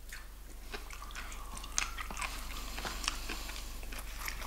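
A person chewing a mouthful of fried chicken close to the microphone: many small, irregular clicks and crunches of eating.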